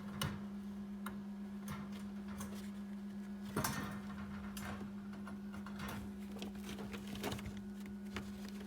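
Steady low electrical hum with scattered, irregular light clicks and taps, two of them louder: one just after the start and one about three and a half seconds in.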